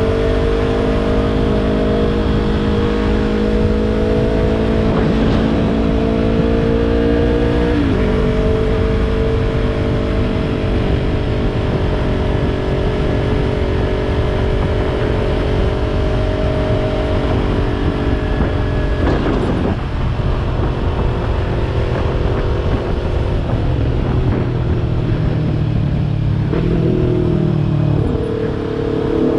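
Yamaha YZF-R3 parallel-twin engine with a Yoshimura exhaust, heard on board while riding. The engine pulls with a slowly rising pitch, drops sharply on an upshift about eight seconds in, then runs steady. It dips briefly near twenty seconds, winds down from about 24 seconds and picks up again near the end, over a rumble of wind noise.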